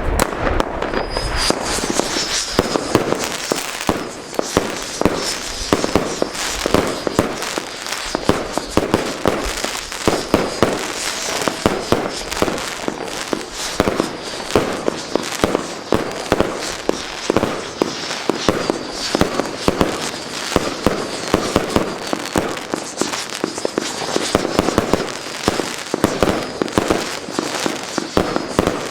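A 100-shot, 24 mm firework cake, Funke's Screaming Chrysanthemum, firing in rapid succession: a dense run of launches and loud bangs. Over the bangs runs the high, wavering screech of its spinning whistling tails, which sets in about a second in.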